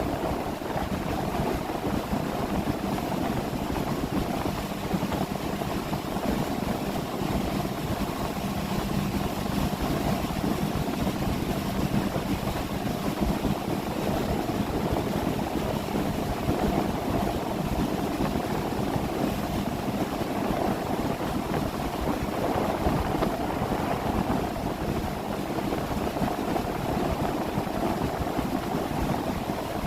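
Engine of a 30-foot boat running steadily under way, with a steady low hum that fades out about a third of the way through.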